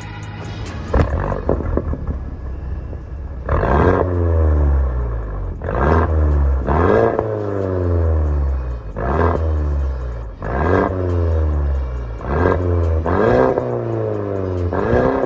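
Mercedes-Benz A180's 1.6-litre turbocharged four-cylinder (M270 DE16) through an MS-R valved cat-back exhaust, free-revved in quick blips. There are a few short sharp blips about a second in, then about eight revs, each rising and falling back with a deep exhaust rumble.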